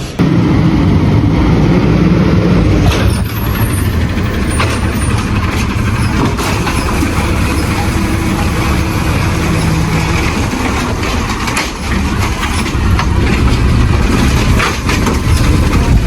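A garbage truck running, its engine steady and loud, with scattered knocks and clatter.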